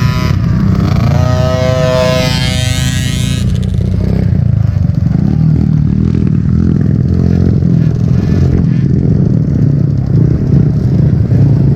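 Dirt bike engines running at a motocross track, a steady low rumble throughout. A single bike's engine note rises and falls as it passes, from about one to three and a half seconds in.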